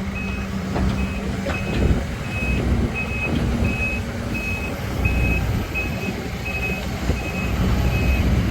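Kobelco SK200-10 excavator's travel alarm beeping evenly, nearly two high beeps a second, as the machine tracks forward, over the steady low rumble of its diesel engine.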